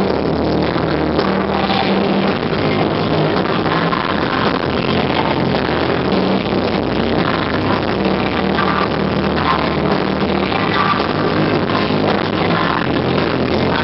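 Loud amplified live band playing electronic rock, with steady sustained bass notes under a dense wash of sound.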